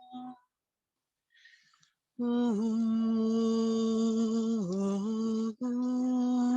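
A person humming or toning one long, steady low note, starting about two seconds in after a near-silent pause. The pitch dips briefly twice, and there is a short break about five and a half seconds in before the note goes on.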